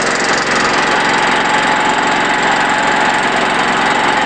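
Small generator engine running steadily on woodgas, a fast even firing beat with a steady high whine over it. The engine leaks air and exhaust around its cylinder head on the inlet and outlet sides, which makes it run noisily.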